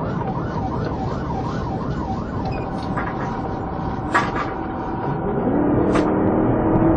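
Police car siren on a fast yelp, about three rises and falls a second, over engine and road noise; the sweeping stops a couple of seconds in, and an engine revs up near the end.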